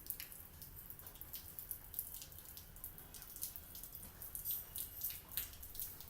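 Faint, irregular clicks and ticks at an uneven pace, over a low background hum.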